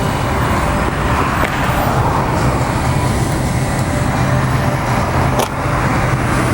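Steady road traffic noise with a low hum underneath, and a couple of faint clicks.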